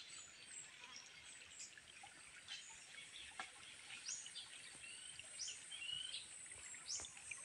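Faint bird calls in forest: scattered short, high chirps and quick pitch sweeps, more frequent in the second half, over a quiet background hiss.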